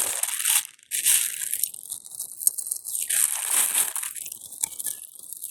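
Crinkling and crunching of packaging being handled, an irregular crackle that pauses briefly near the start.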